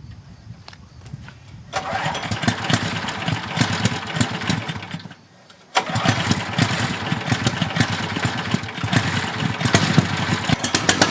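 Small petrol engine of a walk-behind power carrier starting up and running, cutting out about five seconds in and starting again. The engine stalls when the throttle is lowered, a fault that is being put down to a dirty carburettor.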